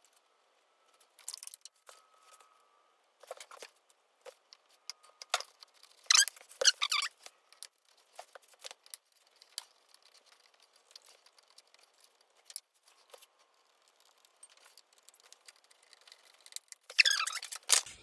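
Scattered light clicks and clinks of small metal parts and hand tools during the refitting of a carburetor on a two-stroke pit bike. There are louder short rattles about six seconds in and again near the end.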